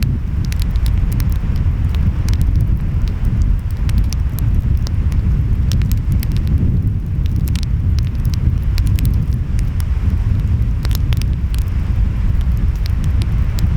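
Wood fire crackling with frequent small sharp pops over a steady low rumble of ocean waves and wind.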